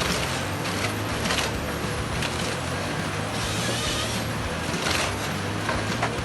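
Heavy logging machinery running steadily with a low hum, broken by several short hissing bursts.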